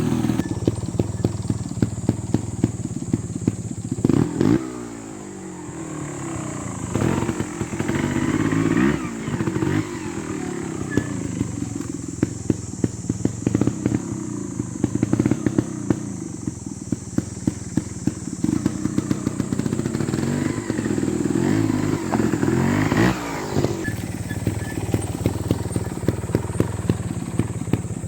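Beta Evo 300 trials motorcycle engine running at low revs, with short throttle blips that rise and fall a few times. Sharp clacks and knocks run through it, typical of a trials bike working slowly over obstacles.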